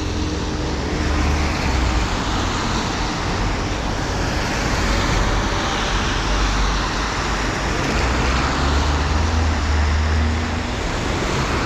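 City road traffic: vehicles passing on a wet street, a steady hiss of tyres with a low engine rumble that swells about a second in and again near the end.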